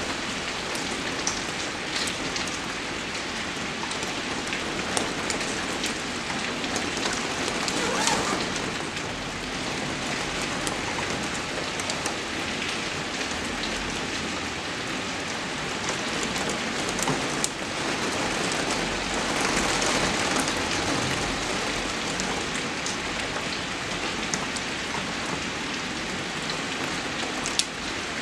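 Steady rain falling, an even hiss with scattered sharp drop hits. It swells briefly about eight seconds in and again around twenty seconds.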